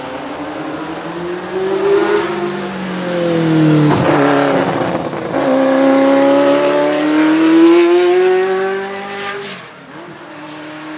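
Ferrari F40's twin-turbo V8 accelerating hard, its revs climbing, dropping sharply at an upshift about four seconds in, climbing again, and falling off again near the end.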